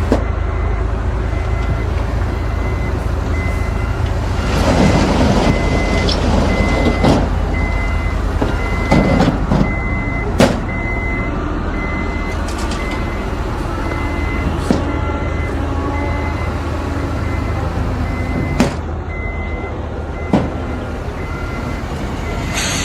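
Heavy diesel construction machinery running steadily, with a reversing alarm beeping about once a second. Several sharp clanks and knocks come in the middle and again near the end.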